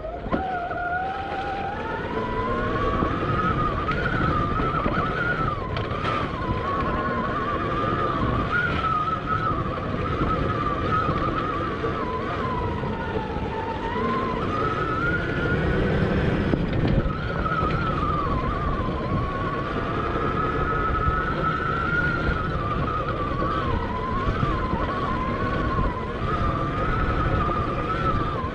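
Admitjet Armor electric dirt bike's motor whining. Its pitch rises as the bike picks up speed in the first couple of seconds, then wavers up and down with the throttle, over a heavy rumble of wind on the helmet camera's microphone.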